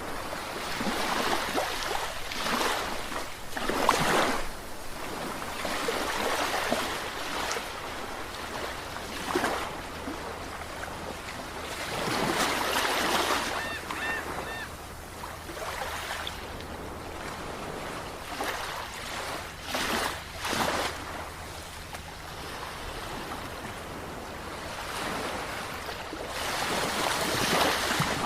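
Sea waves washing in and breaking, the rush of surf swelling and falling away every few seconds, with stronger surges about 4, 12 and 27 seconds in.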